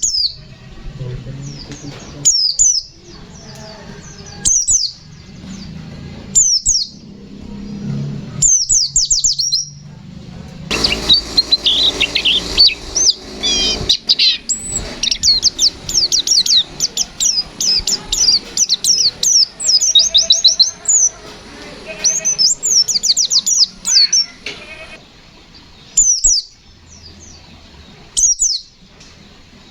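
White-eye (pleci, Zosterops) singing. Short high sweeping phrases come about every two seconds, then from about eleven seconds a long fast stream of chirps runs for some fourteen seconds, then short phrases again near the end.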